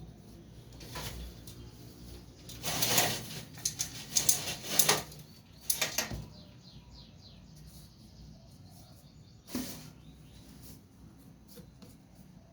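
A series of short rustling, scuffling noises bunched together, then a single one later on.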